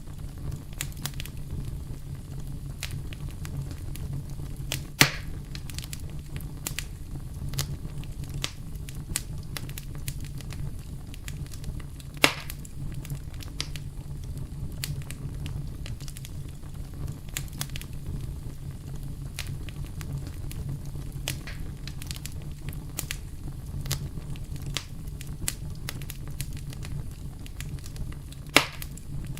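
Wood campfire burning: a steady low rumble of flames with constant small crackles, and three louder sharp snaps, about five seconds in, about twelve seconds in and near the end.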